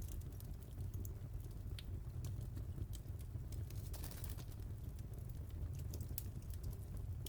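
Wood fire in a fireplace crackling: scattered sharp pops and ticks over a steady low rumble, with a brief hiss about four seconds in.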